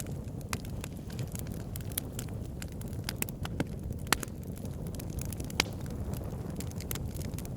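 Campfire burning with irregular sharp crackles and pops over a steady low rumble, the loudest pops about four and five and a half seconds in.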